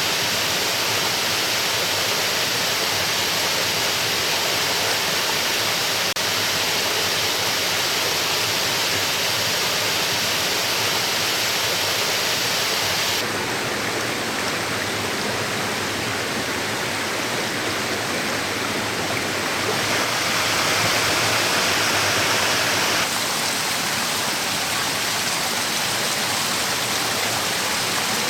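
Waterfall rushing, a steady dense wash of falling water. Its tone changes abruptly three times: it turns duller about halfway through, briefly brighter and louder, then duller again.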